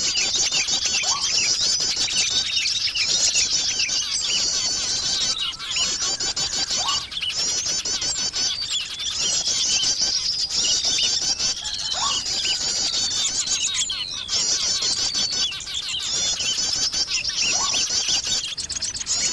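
Bird-lure recording of many small birds twittering and chirping at once, a dense, fast chatter with brief breaks. A short rising whistle recurs about every five to six seconds under it.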